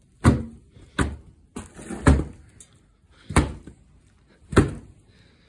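Five dull thumps at uneven intervals of about one to one and a half seconds, a rag being slapped against the machine's frame to knock the dust off.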